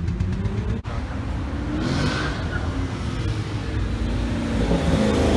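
Car engines accelerating as cars drive off, with the engine pitch climbing as a car pulls away. The sound drops out for an instant about a second in, and the engine grows loudest near the end.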